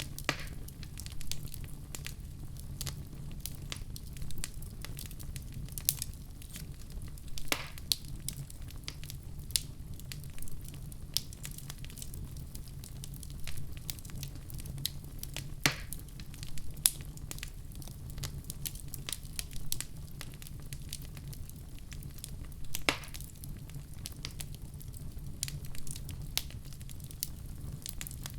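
Wood fire in a fireplace crackling, with irregular snaps and pops, a few of them louder, over a steady low rumble of the flames.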